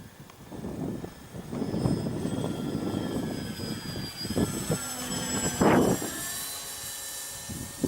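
Small electric RC model plane's motor and propeller whining in flight, the pitch gliding and shifting as it passes. Gusty wind rumbles on the microphone underneath, with a loud gust about six seconds in.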